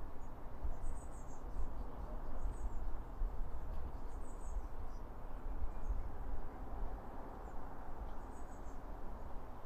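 High, thin bird chirps in short clusters of quick notes every second or two, over a steady low rumble of background noise.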